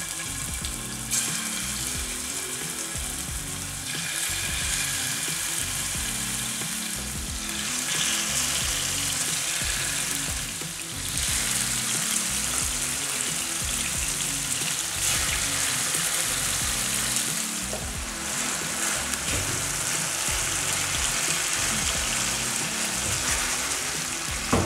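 Marinated chicken strips sizzling in hot oil as they shallow-fry in a nonstick frying pan. The sizzle grows louder as more pieces go in. Background music plays underneath.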